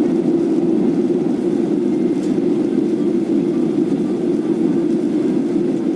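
Steady cabin noise of an airliner during its descent to land: a constant low rumble of engines and rushing air, heard from inside the passenger cabin.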